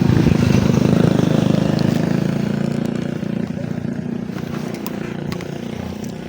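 Yamaha Jupiter MX motorcycle's single-cylinder four-stroke engine running at a steady pitch, gradually fading.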